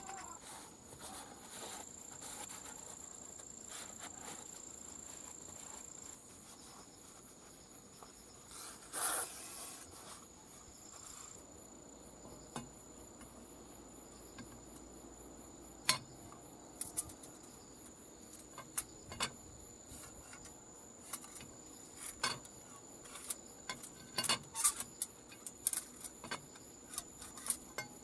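Metal tools and engine parts being handled on a workbench: a short rubbing rush about nine seconds in, then many sharp scattered clinks and taps of metal on metal in the second half, over a faint steady high whine.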